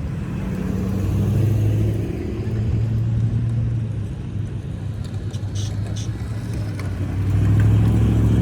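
Custom VIP-style cars with aftermarket mufflers rumbling at low revs as they drive slowly out. The exhaust drone eases in the middle and grows louder from about seven seconds in as a car comes close.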